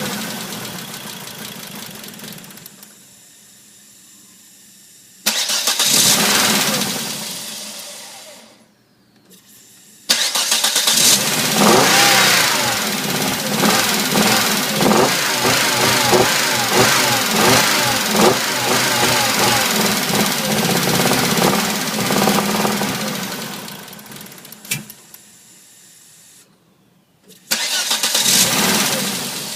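Volvo 850R's turbocharged five-cylinder engine starting up three times. Each time it catches suddenly, runs unevenly, and then fades away. The engine idles rough after a cylinder head rebuild.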